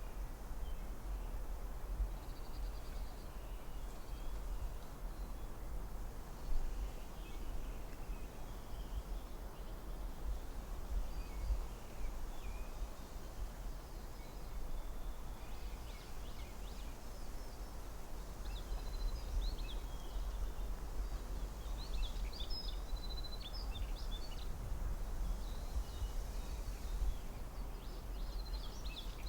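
Forest ambience: small birds chirping and calling over a steady low rumble, the calls coming thicker in the second half.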